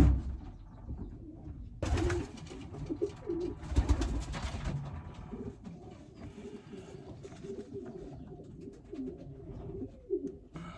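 Racing pigeons cooing in a loft, a run of low coos throughout, with brief rustling bursts about two and four seconds in.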